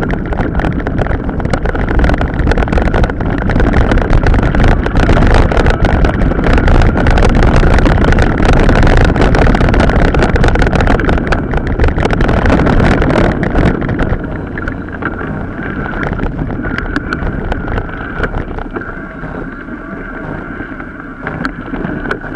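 Wind buffeting the microphone and a mountain bike rattling over a rough off-road track, with many sharp knocks; it is loudest at first and eases off about two-thirds of the way through.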